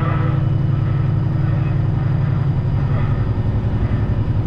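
Straight-piped Detroit diesel engine of a Freightliner Classic XL running, heard from inside the cab as a steady, loud low rumble of rapid firing pulses.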